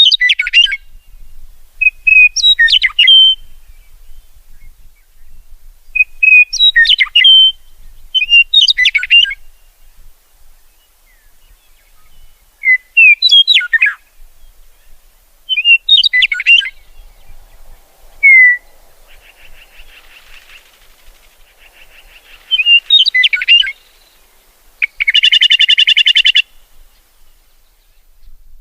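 A songbird singing short chirpy phrases, one every two to three seconds, with a loud harsh buzzing call lasting about a second and a half near the end.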